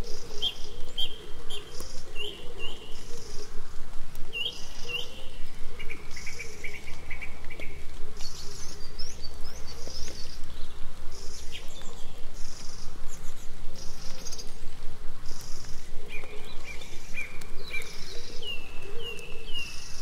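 Several birds calling in a forest: repeated short chirps and down-slurred whistled notes, with a higher hissy note repeating every second or so.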